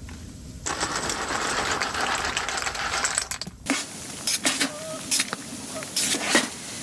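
A loud steady hiss for about three seconds that cuts off suddenly, then several sharp clinks and knocks of metal cookware.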